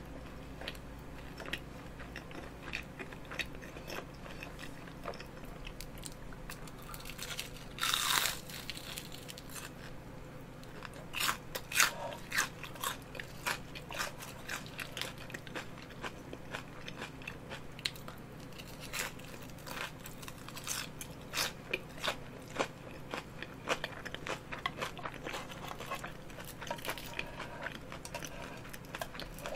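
Close-miked eating: a person chewing and biting into batter-fried squid rings coated in creamy sauce, with crunches and wet mouth clicks, louder about eight and twelve seconds in.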